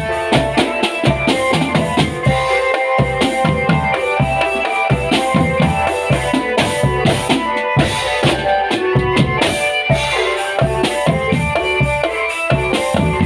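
Marching drum band playing: snare and bass drums beating a fast, dense rhythm under a melody on held pitched notes.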